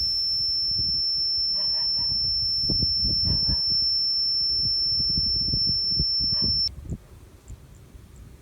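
Pest-repelling speaker sounding one steady high-pitched tone that cuts off suddenly about two-thirds of the way in, over low thumps and rustling.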